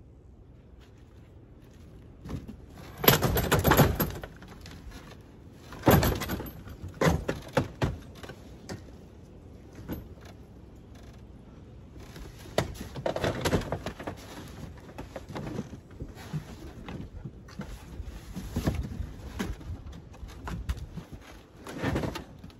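Irregular knocks, rattles and scrapes of parts being handled and moved while a pop-up camper is being taken apart, with the loudest bangs about three and six seconds in.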